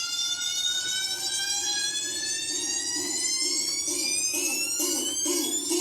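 Music through a car sound system: a synthesizer tone climbing steadily in pitch, the build-up intro of a track, with a pulsing beat coming in about halfway and growing stronger.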